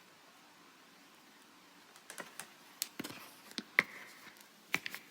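Faint steady hiss, then from about two seconds in a quick, irregular run of light clicks and taps, about a dozen, one near the middle louder than the rest.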